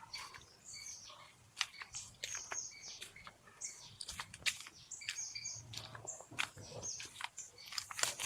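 Birds chirping with short, scattered calls, several at once, mixed with sharp clicks.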